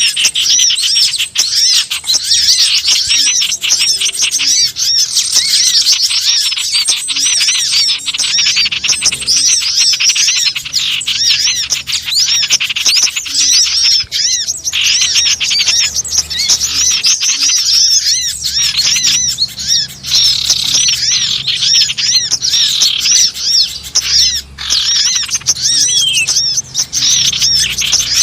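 Dense, continuous chattering of many small wild birds: rapid, high, overlapping chirps and twitters with no break. It is a bird-lure (suara pikat) call recording, played to draw small birds in.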